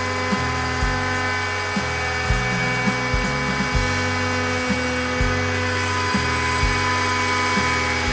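Large DIY CNC router running a cut in plywood. A steady spindle whine sits over low stepper-motor tones that jump to a new pitch every half second or so, with a small click at each change.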